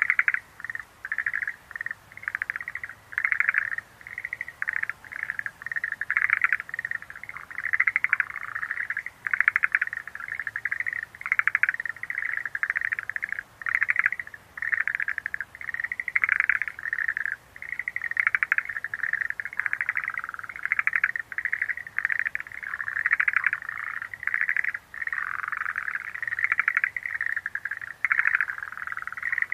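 Schlegel's green tree frogs calling in a chorus: short, rapidly pulsed trilling calls, each under a second, overlapping and following one another without a break.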